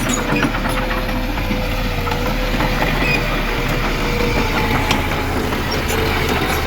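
Crawler bulldozer's diesel engine running steadily under load, with light clicking from its steel tracks.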